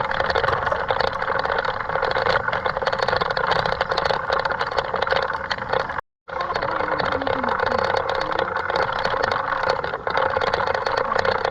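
Steady rolling noise of a mountain bike on a rough road, with a fine rattling throughout; it cuts out for a moment about six seconds in.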